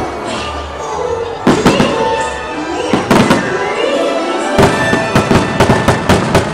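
Fireworks going off in a rapid series of sharp bangs and crackles, starting about a second and a half in, over the fireworks show's music.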